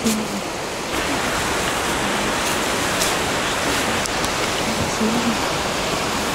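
Rushing river water, a steady, full rush of a fast-flowing stream; it gets a little louder about a second in.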